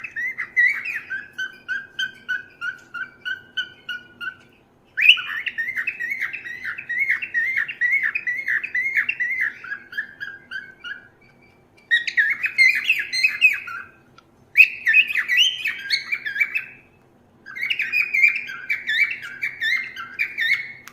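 Cockatiel chattering in fast runs of repeated chirps, in about five bouts with short pauses between them.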